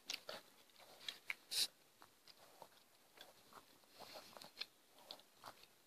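Faint chewing of a bite of grilled chicken breast: soft, scattered mouth clicks and smacks.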